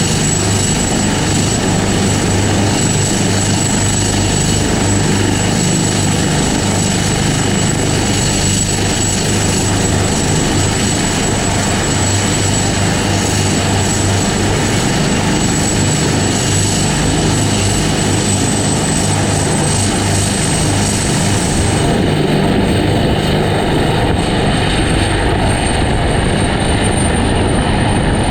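Helicopter running close by, with a steady rotor thud and a dense engine rush under a thin high turbine whine that rises a little in pitch. About three-quarters of the way through, the highest hiss falls away.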